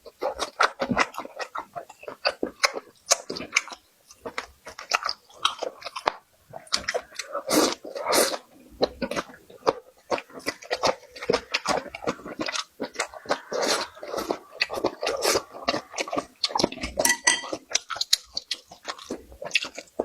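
Close-miked chewing and biting of food: a steady run of irregular wet smacks and crunches from the mouth.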